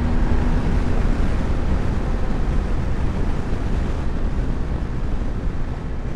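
Motorcycle engine running at steady cruising speed, mixed with wind rushing over the microphone.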